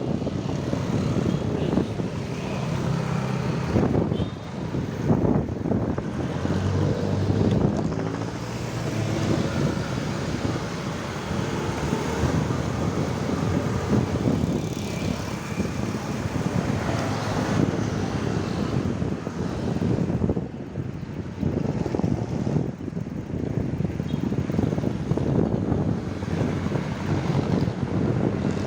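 Traffic noise with vehicle engines, mixed with wind buffeting the microphone as the camera rides along the road.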